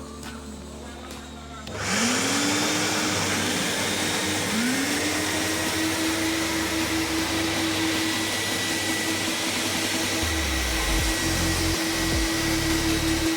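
V-TUF Mammoth 240 wet and dry vacuum switched on: a loud rush of air with a motor whine rising as it spins up about two seconds in, a second rising whine joining a couple of seconds later, then both running steadily. Low thumps come in near the end.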